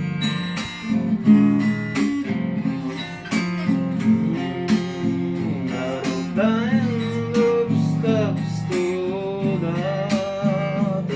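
Music: acoustic guitar playing a strummed instrumental passage of a song, with a melody line over it.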